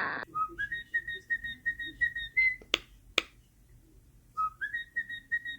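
Pet talking bird whistling runs of short, quick notes at one steady pitch, rising into the first run; a pause of about two seconds with two sharp clicks, then a second run starts.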